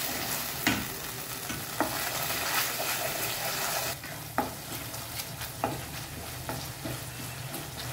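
Onion, capsicum, garlic and chilli sizzling in oil and sauce in a kadai as they are sautéed and stirred. The steady sizzle is broken by irregular knocks and scrapes of the stirring utensil against the pan, and it eases a little about four seconds in.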